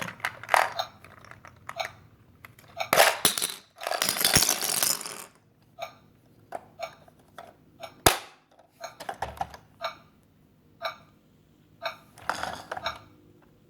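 Hard plastic toy pieces being handled, clicking and clattering irregularly, with longer rattling bursts a few seconds in and a single sharp knock about eight seconds in.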